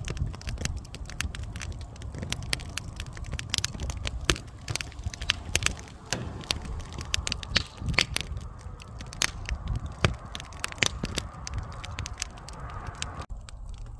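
Campfire crackling: burning wood snapping and popping in irregular sharp cracks over a steady low rumble.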